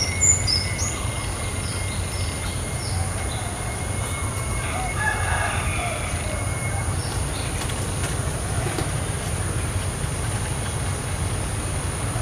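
Small birds chirping in garden trees: a quick run of short high chirps in the first second or so and a few lower calls around the middle, over a steady low rumble.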